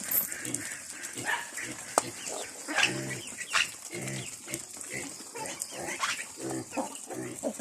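Ducks quacking: a string of short, low, nasal quacks repeating several times a second.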